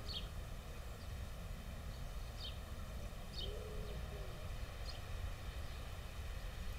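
Quiet garden ambience: a faint low steady rumble with small birds giving four short, high, falling chirps spaced a second or more apart.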